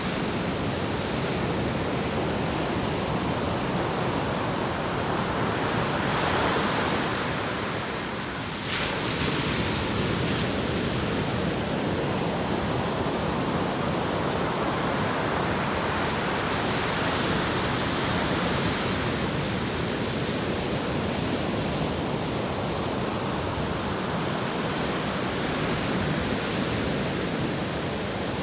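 Atlantic Ocean surf: a continuous rush of breaking waves that swells and eases slowly, with a short lull about eight seconds in before the next wave breaks.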